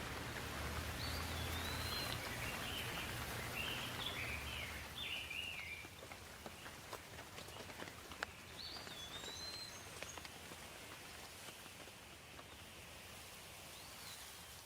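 Steady rain hiss with scattered drop ticks, easing a little after about six seconds. A songbird calls in quick chirpy phrases through the first five seconds and once more about halfway through.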